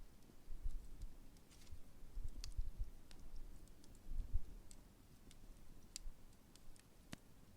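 Large wood campfire crackling, with irregular sharp pops about once or twice a second over a low, uneven rumble.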